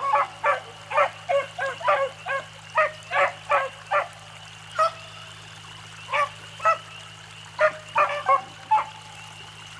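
A pack of beagles baying on a rabbit's trail: short, rapid barks coming thick for the first few seconds, then in scattered clusters with gaps between.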